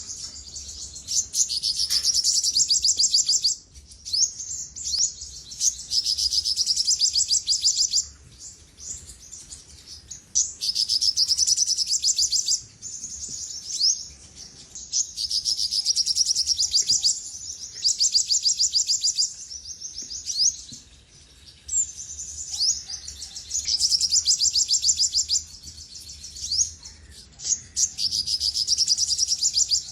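Olive-backed sunbird singing: high, rapid trilled phrases a second or two long, repeated every few seconds, with short thin notes in the gaps between them.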